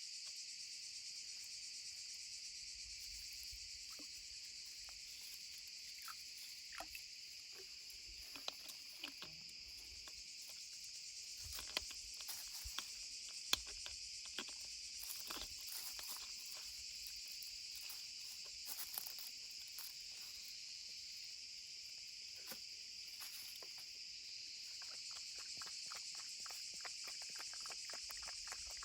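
Steady high-pitched chorus of insects, with scattered light clicks and snaps over it that thicken into a quick run of clicks near the end.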